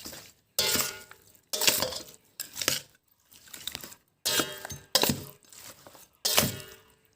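Utensil clinking and scraping against a bowl while chicken pieces are mixed into a spice marinade: a series of irregular sharp knocks, each ringing briefly.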